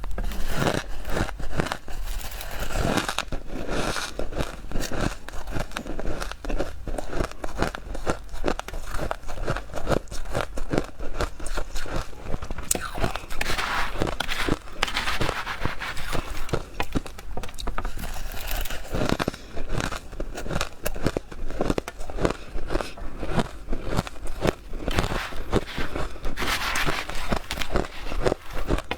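Close-miked biting and chewing of powdery freezer frost ice: a dense, continuous run of crisp crunches and crackles.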